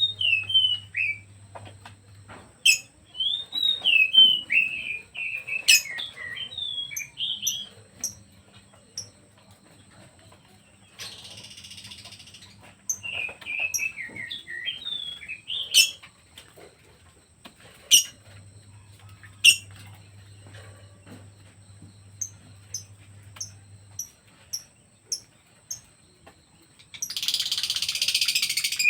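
Pet songbirds singing: warbling phrases that bend up and down, sharp high chips, and near the two-thirds mark a quick run of short, high chirps. Two bursts of hiss break in, one near the middle and one just before the end.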